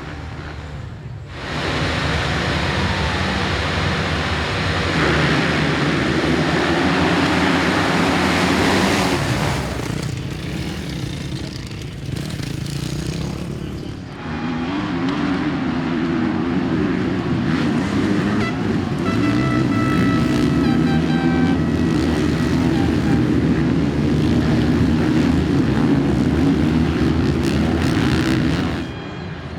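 Motocross bike engines revving hard as they race, the pitch climbing and dropping with the throttle and gear changes, easing off for a few seconds partway through.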